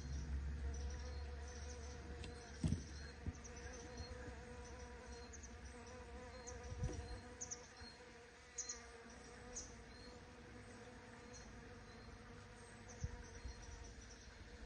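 Bees buzzing in a steady, faint hum, with a few dull thumps from handling or wind on the microphone.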